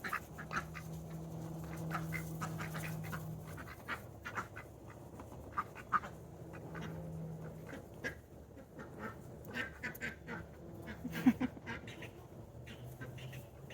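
Domestic ducks quacking in short, scattered calls, one louder call about eleven seconds in. A low steady hum sits underneath for a few seconds at the start and again briefly later.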